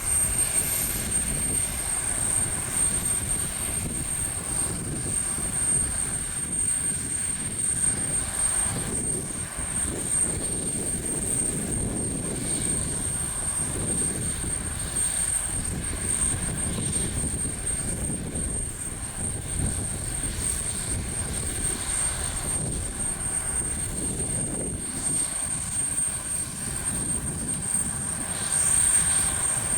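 Jet airliner engines running on the ground: a steady high whine over a low rumble that swells and eases.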